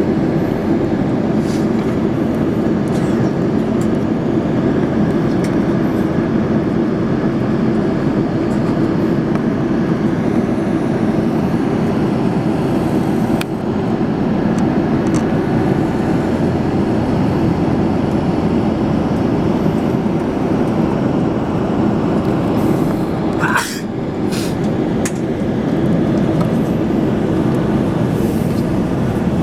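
Steady cabin noise of an Airbus A330-300 airliner in flight: an even, loud rumble of engines and airflow around the fuselage. Near the end a brief cluster of clicks rises above it.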